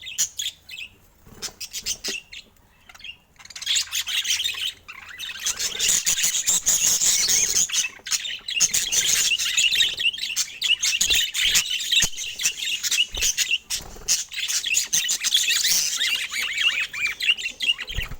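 Pet budgerigars chattering and squawking: scattered calls at first, then dense, continuous rapid chatter from about four seconds in.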